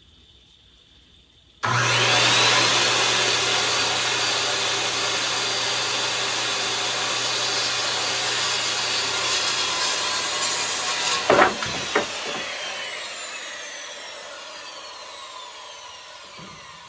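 Corded circular saw starting suddenly and cutting through lumber for about nine seconds. After the cut come two sharp knocks, and the blade whines down in pitch as it coasts to a stop.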